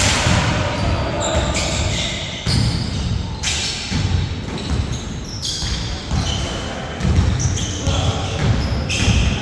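A basketball bouncing on a hard court floor in a large echoing hall, in irregular thuds, while players call out.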